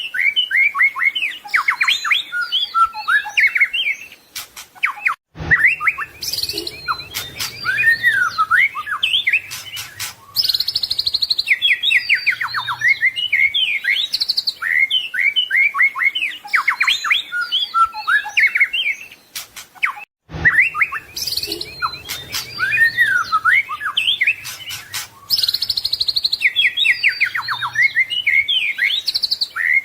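White-rumped shama (murai batu) singing a fast, varied song of rapid whistled notes and trills, full of mimicked calls. The same passage repeats about every fifteen seconds with a brief break between repeats: a looped masteran training recording.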